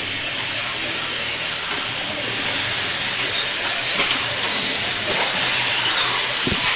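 Radio-controlled stock trucks running around the track: a steady hiss of motors and tyres, growing a little louder after the middle.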